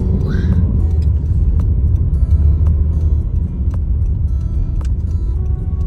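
A car driving, with a steady low rumble of engine and road noise and scattered light ticks.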